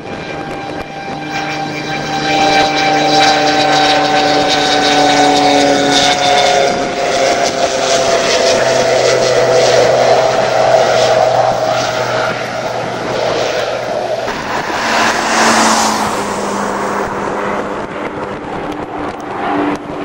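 Propeller aircraft flying past: a loud drone of several tones that builds, slides gradually lower in pitch, and drops to a lower note about three-quarters of the way through.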